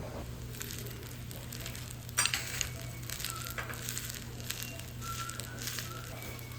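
Irregular crackling and sizzling with scattered fine clicks and one sharp click about two seconds in, over a steady low hum.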